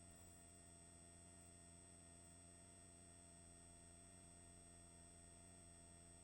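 Near silence: only a faint, steady electronic hum with a few fixed tones.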